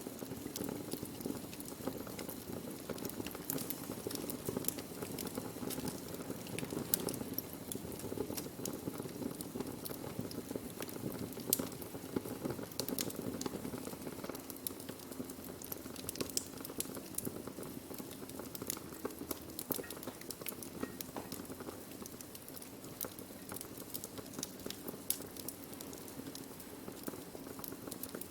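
Burning wood crackling and popping, with many sharp irregular snaps over a steady low hiss and rush of the flames.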